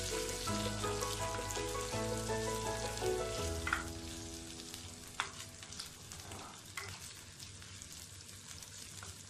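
Ginger, green chilies and curry leaves sizzling in hot oil in a clay pot, stirred with a few sharp clicks of the spoon against the pot. Background music plays over the first three seconds or so, then fades out.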